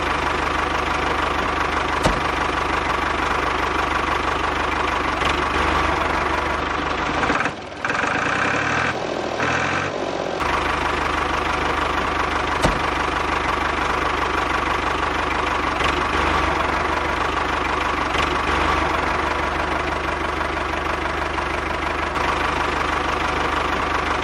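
An engine running steadily at idle with a knocking throb, like a small tractor engine. Its sound drops and changes briefly about eight to ten seconds in.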